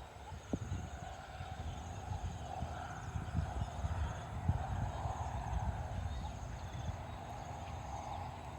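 Dusk chorus in rice paddies: small paddy frogs calling in a steady massed chorus, with a high, fast pulsing trill of crickets and other insects above it. Irregular low thumps and rumble run underneath.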